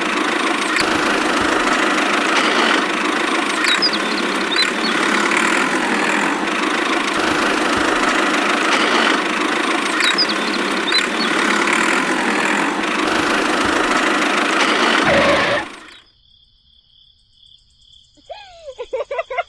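Small motor of a home-built mini tractor running steadily, then cutting off suddenly about three-quarters of the way through. A short warbling call follows near the end.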